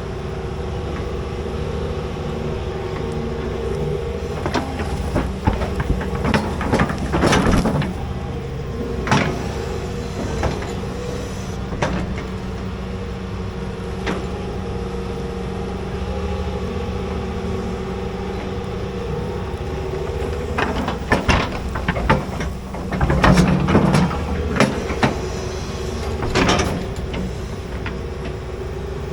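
Large excavator's diesel engine running steadily under load, with two spells of clanks and knocks as the machine works.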